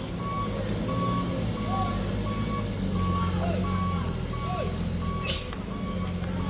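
A heavy truck's reversing alarm beeping in a steady on-off pattern over the low, even running of a diesel engine. A short hiss of released air, like an air brake, comes about five seconds in.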